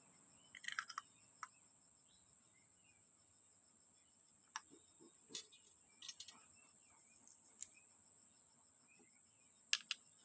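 Faint, scattered light clicks and taps, about seven over ten seconds, two close together near the end being the loudest. A steady faint high-pitched whine runs underneath.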